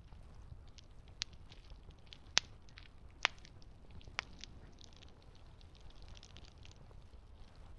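Campfire crackling, with four sharp pops in the first half over a steady low rumble.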